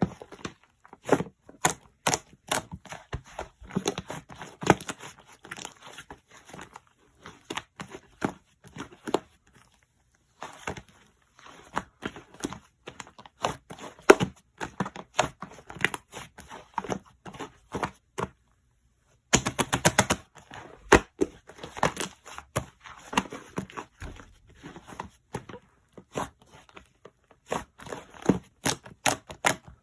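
Slime squeezed and poked by hand, giving rapid, irregular clicking and popping. It stops briefly twice, about ten and nineteen seconds in.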